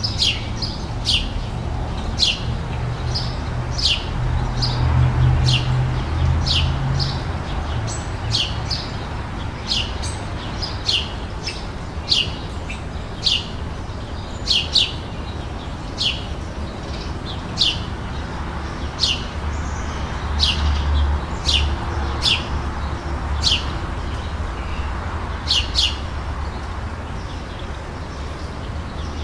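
A songbird calling over and over, short high notes that fall sharply in pitch, about one a second, over a low steady rumble.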